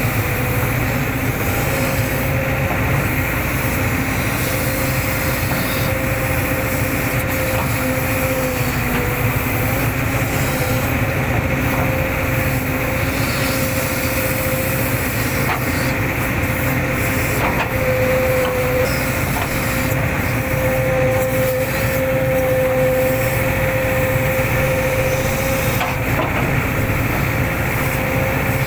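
Hitachi excavator running steadily under load while digging, with a steady whine that wavers slightly in pitch over the engine's rumble and a few faint knocks.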